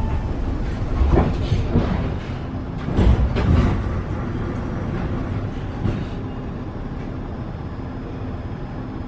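Paris Metro Line 7bis train running, with several knocks and clatters in the first four seconds, then a steadier, slightly quieter rumble.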